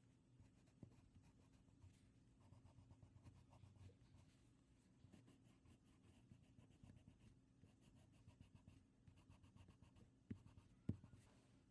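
Faint scratching of a drawing tool on paper in quick, short strokes, with two soft taps a little before the end.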